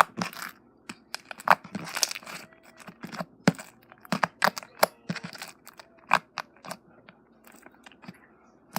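Sticky slime being squeezed and stretched by hand, giving a string of irregular sharp pops and crackles that thin out near the end.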